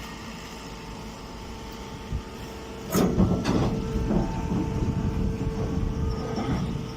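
Machinery noise: a sharp clank about three seconds in, then several seconds of rattling and clattering over a steady hum.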